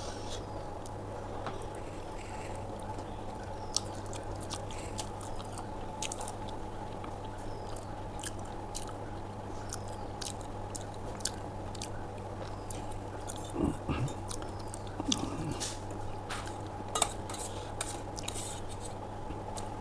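A person chewing aloo paratha with curd close to the microphone: scattered wet mouth clicks and smacks, with a few louder swallows or mouth sounds about two-thirds through, over a steady low hum.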